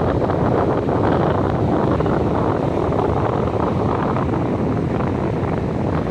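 Wind buffeting the microphone, a steady rush, with ocean surf behind it.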